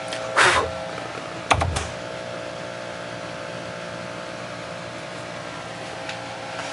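Steady surface hiss and amplifier hum from a turntable playing a vinyl 45, with a short rush of noise about half a second in and a few sharp pops with a low thump about a second and a half in.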